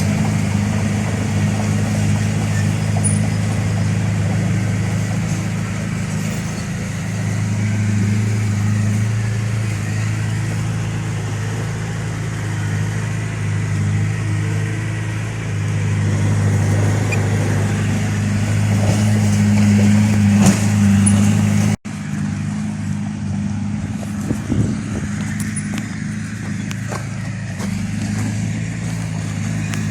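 Heavy diesel engine of a working machine running steadily at a fairly constant pitch, swelling a little in level now and then; the sound cuts out for an instant about two-thirds of the way through, then carries on.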